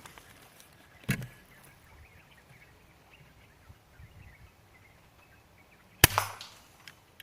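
Shot from a bored-up Sharp Ace multi-pump air rifle fired at a bottle: a single sharp crack about six seconds in, the loudest sound, with a short ringing tail. A fainter sharp click comes about a second in.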